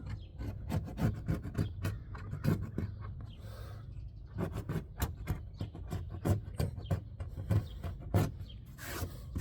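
Flat-bladed scraper rasping in short, quick repeated strokes, scraping old quarter-window glue off the mounting surface of a car body, with a pause of about a second partway through.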